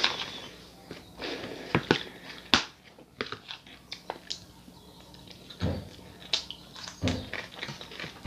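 Close-miked chewing of crunchy raw salad with red onion: scattered crisp crunches and wet mouth clicks, with a few fuller bites near the end.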